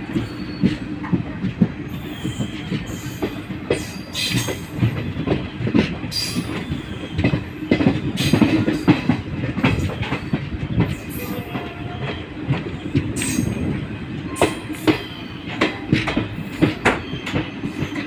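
Howrah Express passenger train running: a steady rumble with frequent irregular knocks and clatter from the wheels on the track.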